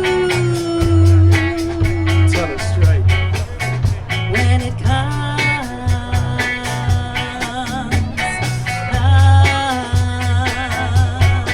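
Live band playing an instrumental passage in a ska-funk groove: a steady drum beat with hi-hat, a bass line, and a lead instrument holding long notes, some with vibrato.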